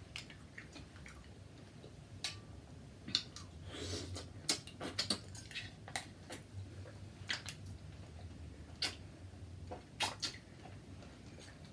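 Irregular sharp clicks and clinks of green-lipped mussel shells being handled and pried open, with soft wet squishing and chewing.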